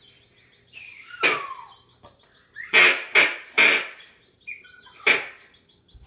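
Toy bird calls being tried out: five short, loud squawking calls, the first falling in pitch, with three in quick succession near the middle, over a faint steady high twittering.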